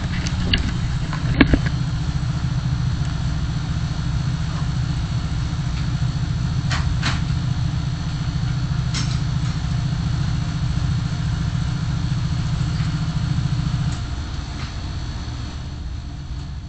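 Car engine and road noise heard from inside the cabin on a dashcam: a steady low drone, with a few short clicks near the start, that eases off about fourteen seconds in.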